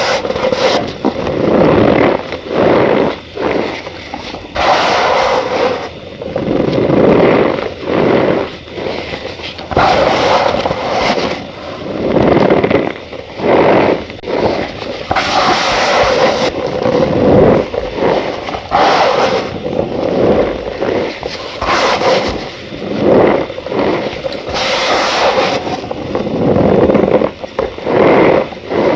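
Cornstarch powder being pressed and squeezed, giving squeaky crunches in a string of bursts roughly once a second.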